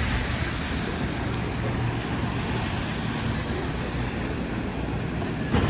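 Steady city street traffic noise, a low rumble of passing vehicles, with a single sharp thump about five and a half seconds in.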